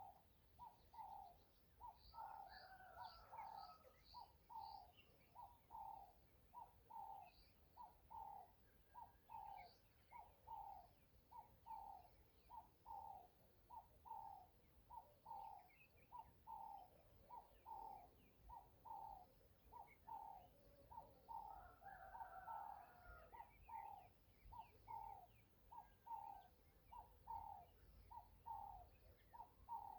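Faint bird calls: a short low call repeated steadily about every three-quarters of a second, with higher chirps now and then.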